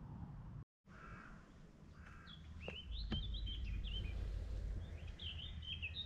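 A small songbird singing quick, twittering warbled phrases in two short runs, over a low rumble.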